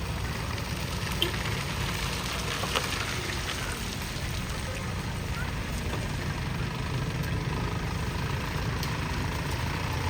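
A vehicle engine running steadily at low revs, with two short faint clicks about one and three seconds in.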